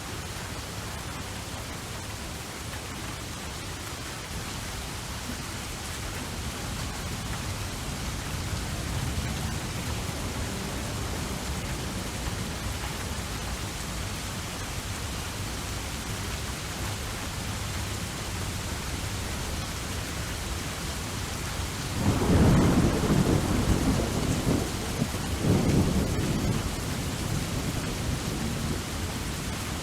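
Steady rain with a thunderclap about three-quarters of the way through: a sudden low rumble that swells again a few seconds later and dies away.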